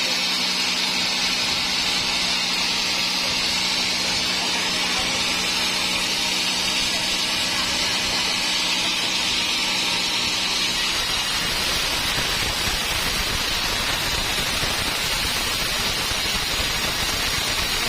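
Sawmill saw running and cutting through a large block of dry teak, a steady loud rush with a strong high band. About eleven seconds in, the steady low hum drops out and the sound turns to a broader, rougher noise.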